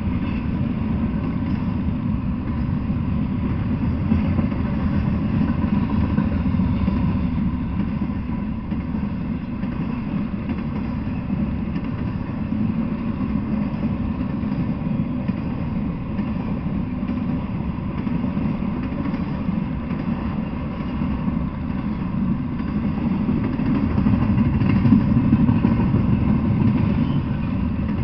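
Double-stack intermodal freight train passing: a steady low rumble of the well cars' wheels rolling on the rails, rising a little near the end.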